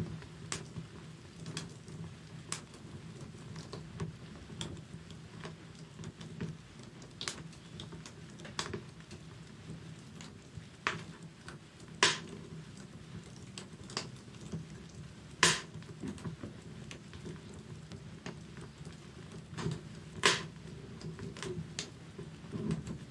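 Wood fire crackling in a fireplace: scattered sharp pops and snaps over a low, steady rumble, with a few louder pops about halfway through and near the end.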